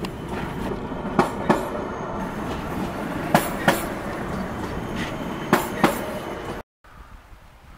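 Stadler Flirt electric multiple unit rolling slowly past at close range, a steady rumble with its wheels clacking over a rail joint in pairs, one pair about every two seconds. Near the end the sound cuts off abruptly and gives way to faint background sound.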